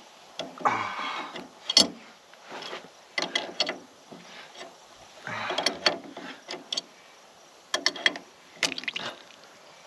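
Hydraulic hose quick-connect couplers being worked by hand, with a string of sharp metallic clicks and clacks and two short rasping bursts, one near the start and one about five seconds in. The line is still holding trapped hydraulic pressure, which keeps the coupler from connecting.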